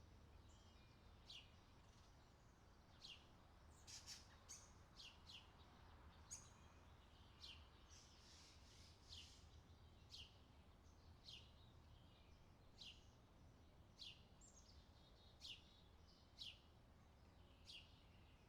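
Faint outdoor summer ambience: a bird repeating short downward-sweeping chirps, about one a second, over a low steady rumble.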